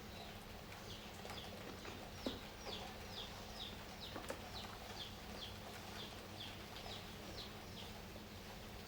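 A small bird chirping steadily, a quick run of short, high, falling chirps about three a second, over a steady background hiss. Two sharp clicks come about two and four seconds in.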